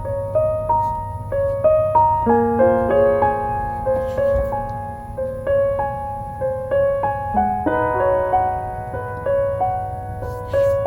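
Soft piano background music: a slow melody of single notes over gentle chords, each note ringing and fading, with a steady low hum beneath.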